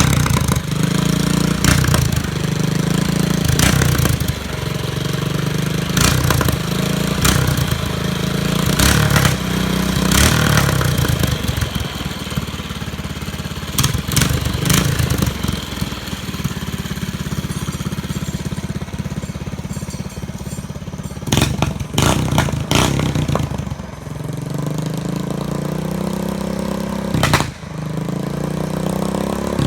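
Mini bike engine with a custom exhaust running and being revved, broken every second or few by sharp exhaust pops as it backfires and shoots flames.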